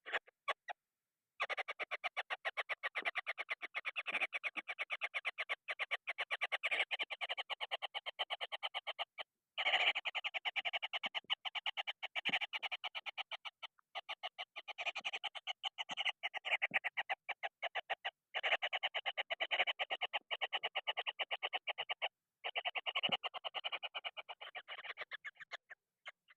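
Kingfisher chicks giving rapid, pulsing begging calls in long runs, broken by a few short breaks, the calls of hungry nestlings.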